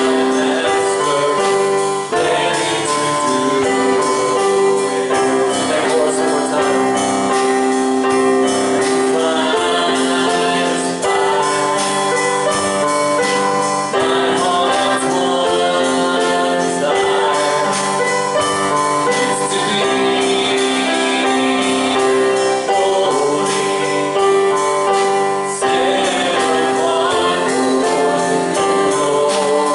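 Congregational gospel worship singing with piano or keyboard backing, the voices holding long notes over a steady beat.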